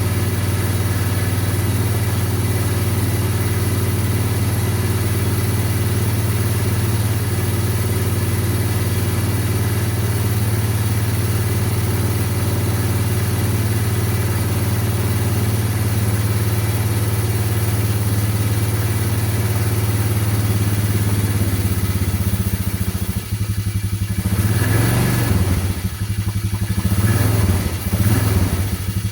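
ATV engine idling steadily while still cold after a cold start, then revved a few times near the end.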